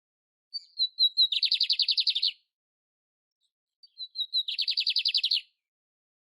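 Canary singing two short phrases. Each opens with a few quick high notes and runs into a rapid, even trill about a second long.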